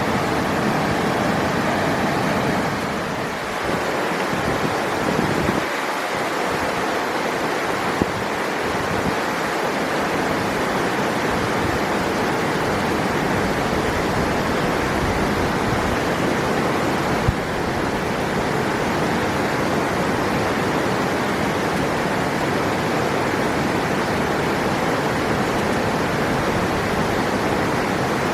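River water rushing steadily, with two brief faint clicks partway through.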